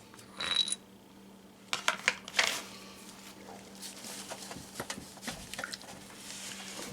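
Scattered clinks, taps and rattles of metal parts being handled as the oil burner's oil filter housing is opened, with one short ringing clink just under a second in and a cluster of knocks about two seconds in, over a faint steady hum.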